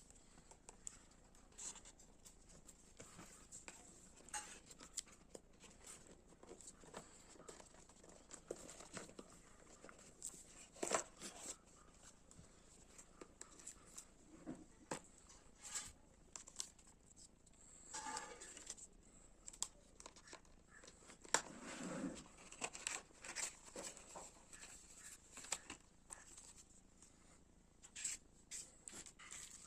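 Smartphone box packaging being handled and opened: faint, scattered rustling, crinkling and tearing of plastic wrap and cardboard, with light clicks and taps, a few louder handling noises in the middle.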